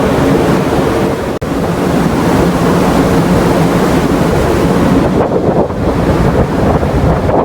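Wind buffeting the microphone over the rush of sea water around a ferry, with a steady low drone beneath; the sound cuts out for an instant about a second and a half in.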